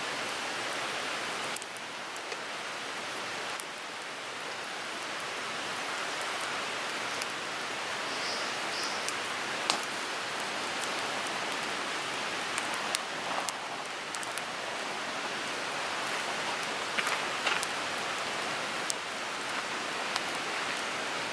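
Wood fire burning in a Picogrill 398 fire pit: a steady crackling hiss with scattered sharp pops of burning wood.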